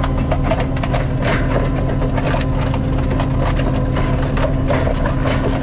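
Tractor engine running steadily while a towed roller crushes and crackles over loose track ballast on the road surface, a dense run of crunching clicks over the engine's steady hum.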